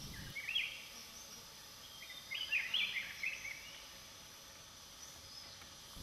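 Faint natural background with short bird chirps: a brief run of chirps about half a second in, and a longer run of quick chirps between two and three and a half seconds.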